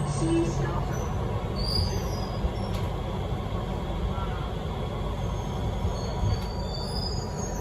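Beijing Subway Line 8 metro train running, a steady low rumble with brief high-pitched wheel squeals coming and going.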